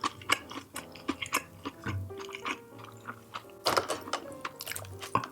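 Close-miked chewing and mouth sounds of someone eating, with many short wet clicks and crackles and a louder bite about three and a half seconds in, over soft background music.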